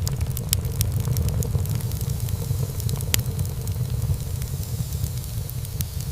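Wood fire burning in a fireplace: a steady low rumble of flames under a hiss, with frequent sharp crackles and pops from the burning wood and one louder pop about three seconds in.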